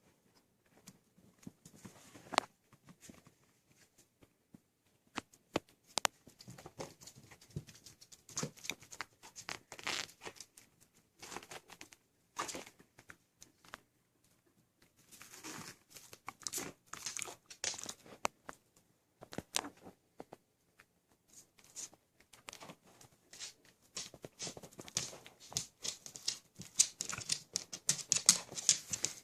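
Puppies moving about in their bedding, with irregular rustling, crinkling and scratching and scattered small clicks. The sound is busier near the end.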